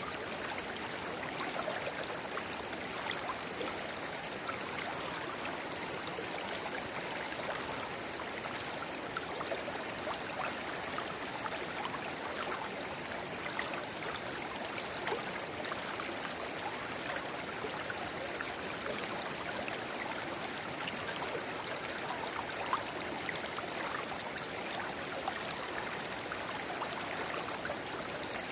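Shallow river babbling steadily where a narrow spring-fed rivulet runs into it, a dense patter of small splashes and gurgles over an even rush of water.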